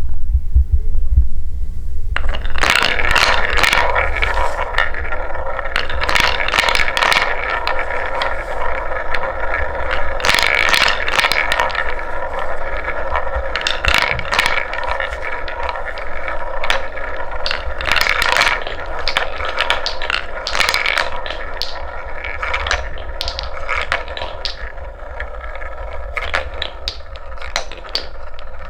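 Wooden balls rolling and clattering down a wooden marble run track: a steady rolling rattle with many sharp clicks, starting about two seconds in. A low hum runs underneath.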